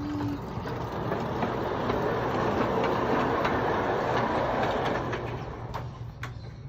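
A train rolling past, its rumble building to a peak midway and then fading, with scattered clicks of wheels over the rail joints.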